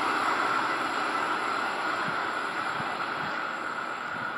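N-class passenger carriages of a locomotive-hauled train rolling past on the rails, a steady rushing rumble that slowly fades as the train moves away.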